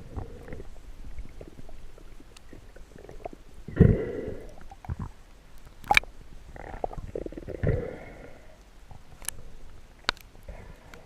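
Muffled underwater sound of a diver breathing through a snorkel: several short breath bursts, with a few sharp clicks between them.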